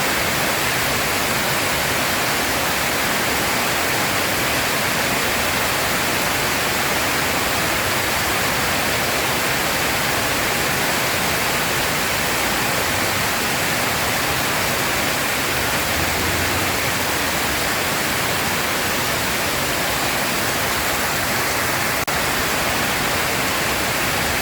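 Steady heavy rain falling, a dense even hiss without breaks.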